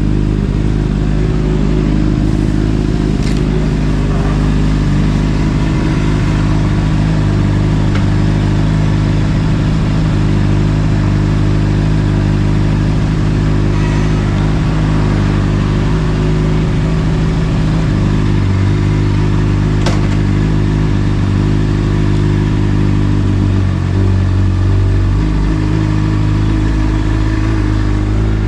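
Honda CBR600RR's inline-four engine running at a steady engine speed through an Akrapovic exhaust, the pitch shifting briefly about 18 and 24 seconds in.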